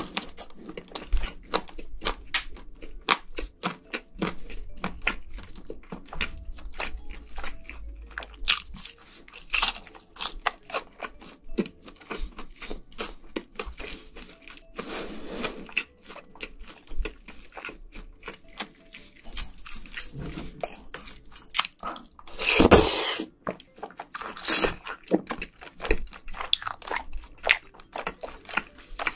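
Close-miked chewing of fried chicken: a dense run of wet clicks and crisp crunches from a full mouth, with two louder, noisier bursts, one about halfway and one about three-quarters through.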